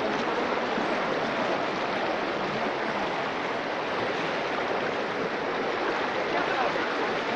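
Floodwater rushing and churning in a strong current, a steady even roar with no breaks.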